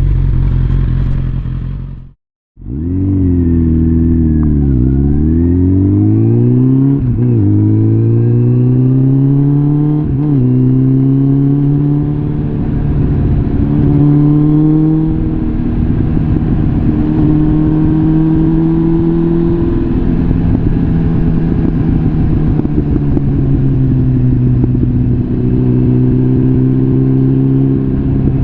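Suzuki GSF650 Bandit's inline-four engine through a complete Arrow aftermarket exhaust, accelerating with the pitch climbing in steps and short breaks at the gear changes, then holding a fairly steady cruise. The sound cuts out completely for a moment about two seconds in.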